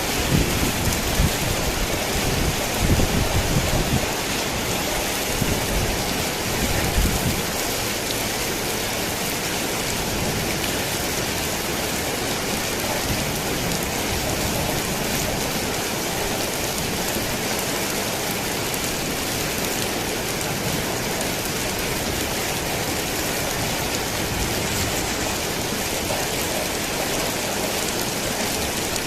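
Heavy rain pattering steadily on a tin roof, with thunder rumbling low through the first several seconds and then dying away, leaving an even hiss of rain.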